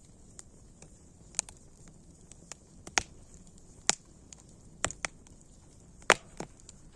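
Wood fire crackling: irregular sharp pops and snaps over a faint steady hiss, the loudest pop about six seconds in.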